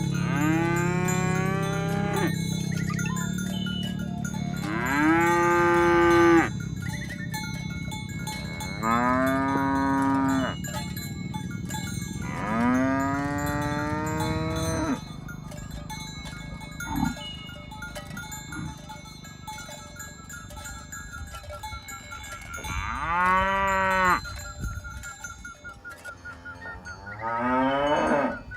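Domestic cattle mooing: six long calls that rise and fall in pitch, spaced a few seconds apart, with a longer gap in the middle. A faint steady ringing runs underneath.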